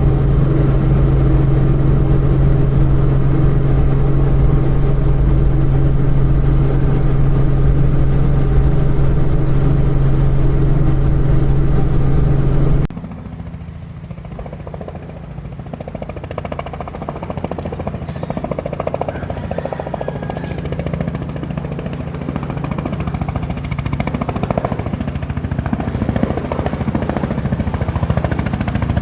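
Helicopter engine and rotor noise: a loud, steady drone with a strong low hum. About thirteen seconds in it changes abruptly to a rougher, quieter noise that slowly grows louder.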